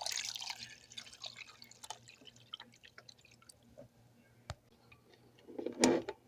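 Water splashing and dripping while the drip coffee maker is filled, strongest in the first second, with small clicks after it and a louder knock near the end as the machine is handled.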